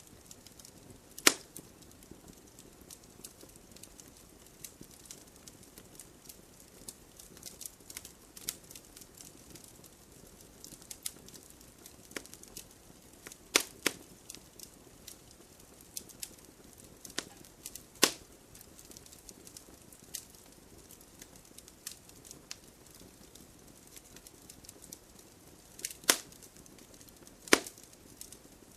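Wood fire in a fireplace crackling, a low hiss with frequent small ticks and a handful of sharp, loud pops: about a second in, twice in the middle, and twice near the end.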